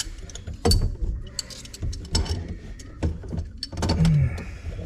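Irregular clicks, knocks and clatter of hand tools and metal fittings being handled in the cabinet under a kitchen sink.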